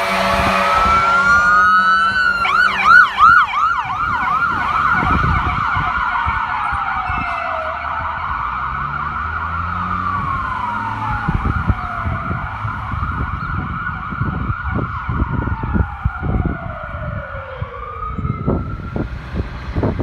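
Electronic sirens on responding fire department vehicles. A siren winds up about two seconds in, switches to a fast yelp for a couple of seconds, then wails in slow sweeps that fall in pitch, over a steady siren tone. In the second half there is a low rumble with knocks underneath.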